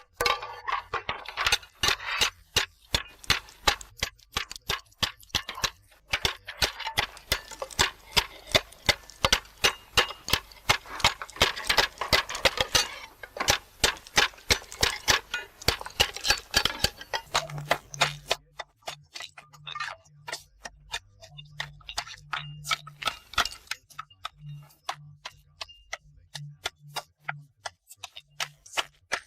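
Slate hammer trimming the edge of a roofing slate held against a narrow metal anvil: a long run of quick, sharp taps, several a second, denser in the first half and sparser later.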